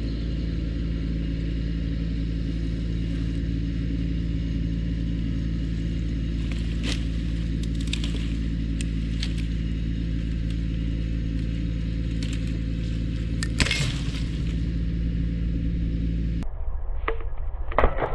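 Kubota tractor's diesel engine running steadily as it backs up and pulls a rope tight. About fourteen seconds in, a single loud crack as the tensioned rope lets go, like a shotgun going off. Near the end the engine sound cuts off abruptly and a brief clatter follows.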